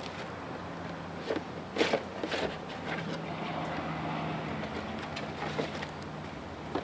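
A few short clinks and knocks of filter parts and hand tools being handled, the loudest about two seconds in, over a steady low hum.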